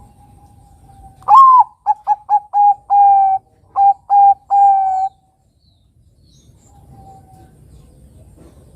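Young Bangkok-type perkutut (zebra dove) singing one cooing phrase: a rising-then-falling opening note, then a quick run of short staccato coos with two longer held coos among them.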